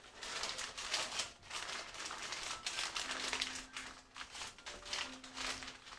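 Wrapping crinkling and rustling in irregular handfuls as a seasoned raw half chicken is wrapped up by hand.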